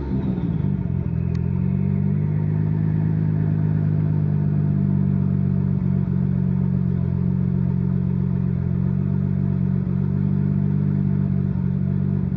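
Nissan RB26DETT twin-turbo straight-six engine in a BNR32 Skyline GT-R, its revs dropping back at the very start and then idling steadily.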